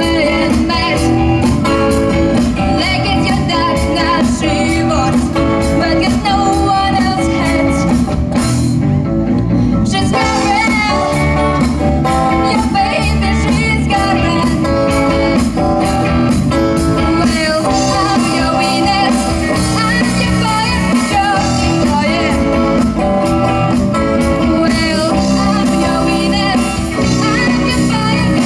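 Live rock band playing on the street: electric guitars, bass and drums with a singer.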